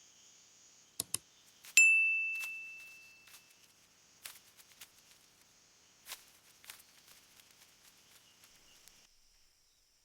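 A faint, steady, high insect-like hiss of ambience. About a second in come two sharp clicks, then a single bright ding that rings and fades away over about two seconds. A few faint clicks follow, and the hiss stops near the end.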